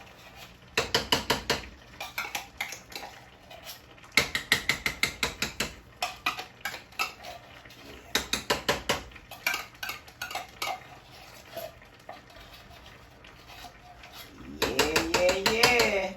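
A metal spoon stirring and knocking against a pot in quick bursts of rapid clinks. Near the end comes a louder sound lasting about a second and a half whose pitch wavers up and down.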